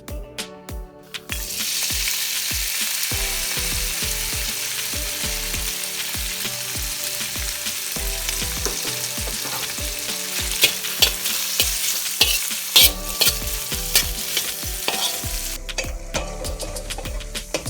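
Food hitting hot oil in a pan about a second in, then frying with a loud steady sizzle. In the second half a utensil clicks and scrapes against the pan as it is stirred, and the sizzle dies down near the end.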